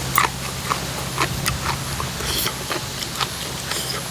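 Close-up eating sounds of a person chewing with an open mouth: irregular wet clicks and smacks, about one every half second, over a steady low hum.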